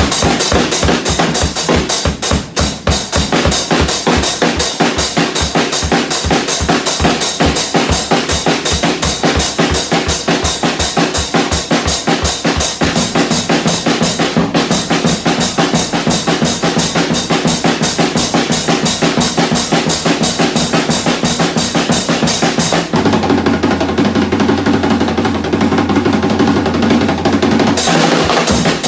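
Drum kit played with sticks in a fast, even beat of about five hits a second, over steady background music. The hits stop for about five seconds near the end, leaving only the music, then start again.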